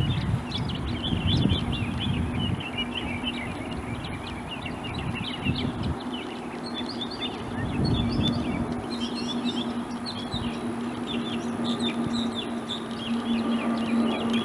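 Many small birds chirping busily, overlapping short calls throughout. A steady low hum runs underneath and grows stronger near the end, with some low rumble in the first couple of seconds.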